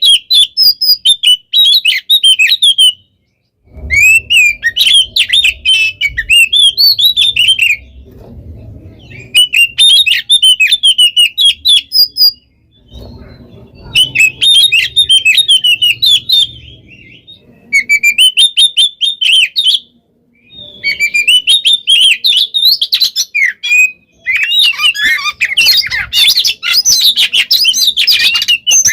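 Oriental magpie-robin (kacer) singing fast, packed phrases of rapid chirps and trills in bursts of a few seconds, each broken by a short pause: the non-stop 'gacor konslet' song used to set other birds singing. A faint low rumble runs under some phrases.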